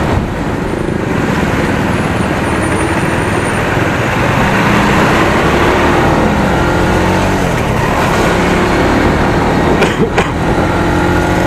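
Single-cylinder 250 cc motorcycle engine running on its stock exhaust while being ridden, under steady wind and road noise, its pitch shifting a little midway. A few short clicks or knocks come near the end.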